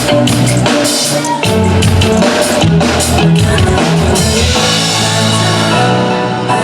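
Live pop band playing an instrumental passage on stage, drum kit over held bass notes; the drum hits stop about four and a half seconds in while the held notes carry on.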